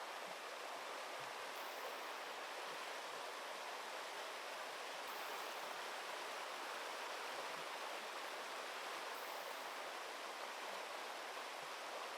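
Steady rushing of flowing river water, an even hiss with no break.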